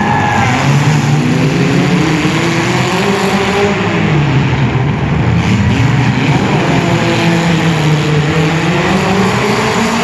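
Several compact car engines revving up and down over one another, their pitches rising and falling out of step.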